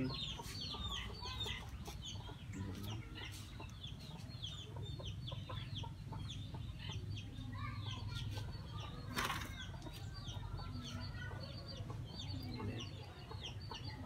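Young birds cheeping: a continuous stream of short, high, falling peeps, several a second, over a steady low hum. A brief rustle about nine seconds in.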